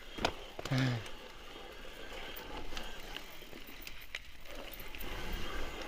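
Mountain bike riding over a rough, stony trail: a steady rush of tyre and trail noise with scattered sharp knocks and rattles from the bike. A rider gives a short shout about a second in.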